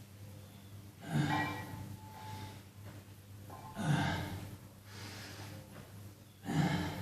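A person exhaling forcefully with a voiced grunt on each lifting repetition, three times at an even pace about three seconds apart.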